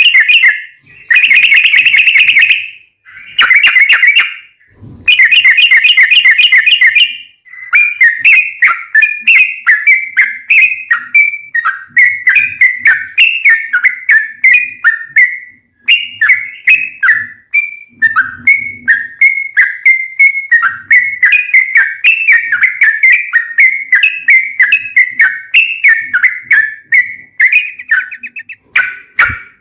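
Yellow-vented bulbul (trucukan) singing in its rapid, long-running 'ropel' style: first a few fast rattling bursts about a second long with short gaps, then a long run of quick bubbly chirps, several a second, many dropping in pitch.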